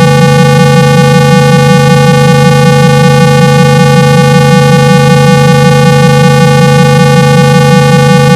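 Loud, steady 165 Hz test tone with a stack of overtones and a slight pulsing. It is a speaker-cleaning tone, played to shake water out of a phone's loudspeaker.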